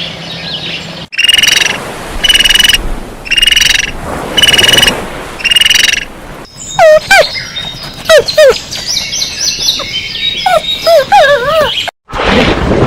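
Birds calling: first five evenly spaced, pitched calls about a second apart, then a run of quick swooping whistles.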